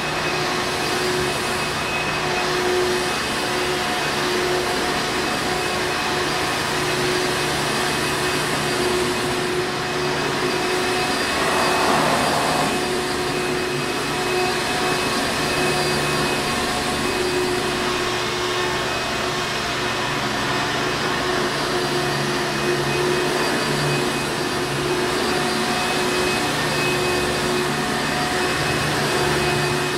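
Hoover Encore Supreme vacuum cleaner running steadily, a constant motor drone and airflow rush with a steady whine. About twelve seconds in there is a brief swell in the sound.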